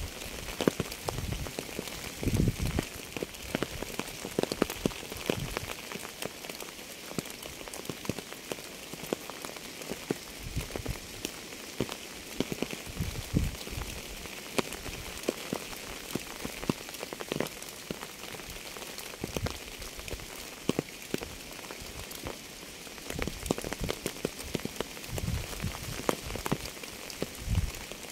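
Steady rain: an even hiss full of the patter of individual drops, with now and then a few heavier, deeper drop sounds, most about two seconds in and again near the end.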